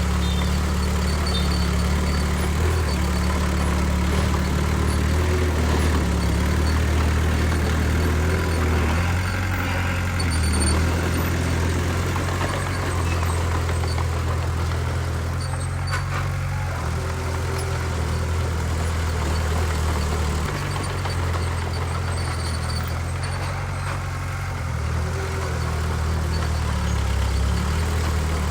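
Heavy diesel engine of an old bulldozer running steadily, a low drone whose pitch shifts slightly now and then.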